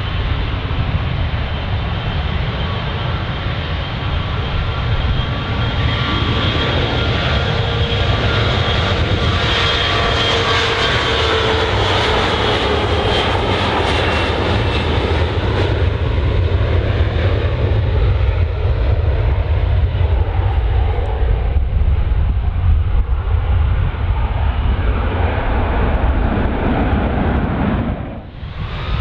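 Jet airliner engines running loudly and continuously: a deep rumble under several whining tones. The sound grows brighter and sharper in the middle, and the whine slides down in pitch as it eases off.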